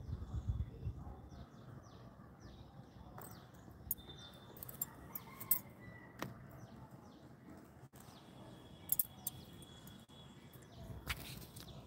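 Small birds chirping outdoors: many short, quick, falling chirps, thickest in the first half. A low rumble in the first second and a few sharp clicks are also heard.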